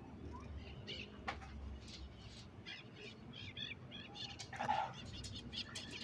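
Faint bird chirps, with a louder short hiss about three-quarters of the way through.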